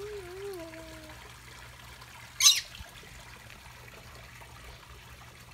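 Water trickling steadily. In the first second there is a short wavering low tone, like a hum, and about two and a half seconds in there is one brief, sharp, hissy burst that is the loudest sound.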